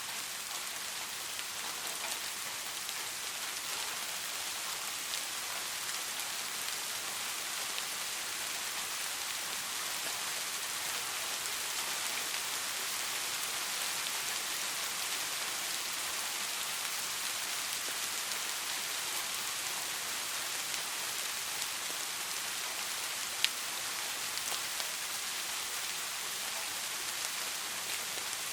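Steady rain falling, an even hiss of drops with no let-up, and a single sharp click a few seconds before the end.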